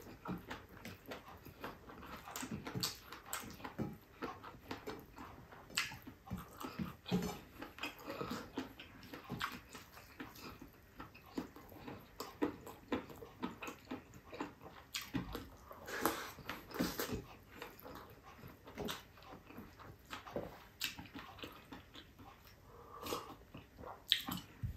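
A person eating rice and octopus adobo with bare hands: wet chewing and lip-smacking, a stream of short irregular smacks and clicks.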